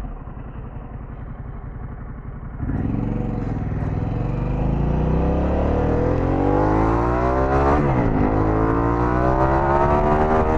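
Harley-Davidson Pan America's Revolution Max 1250 V-twin accelerating hard: a little under three seconds in the throttle opens and the engine note climbs steadily, drops at an upshift about eight seconds in, then climbs again to another shift near the end.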